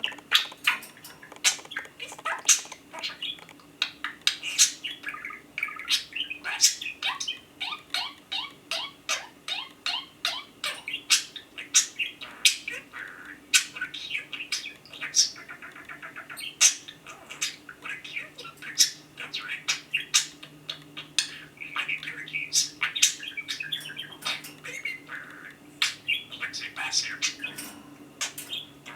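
Budgerigars chattering: a busy stream of short chirps, clicks and squawks, with several quick runs of rapid ticking notes.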